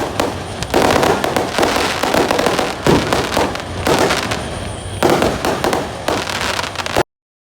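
Fireworks going off in a dense, continuous crackle, with louder bangs about one, three and five seconds in. The sound cuts off abruptly near the end.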